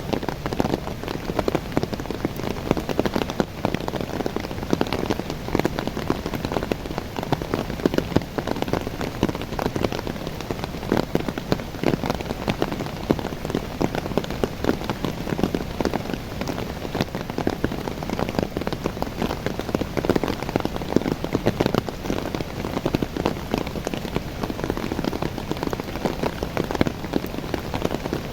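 Rain pouring onto the leaves of young coffee plants: a dense, steady patter of drops.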